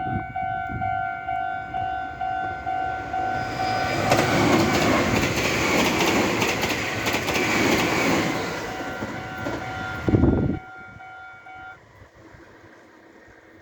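Meitetsu electric train passing at close range, its wheels clattering over the rail joints, while a level crossing warning bell rings in rapid even pulses. The train noise builds from about four seconds in and cuts off abruptly about ten and a half seconds in; the crossing bell stops shortly after.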